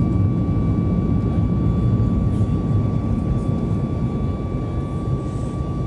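Boeing 737-800's CFM56 jet engines running steadily: a dense low rumble with a steady high whine over it, easing off slightly toward the end.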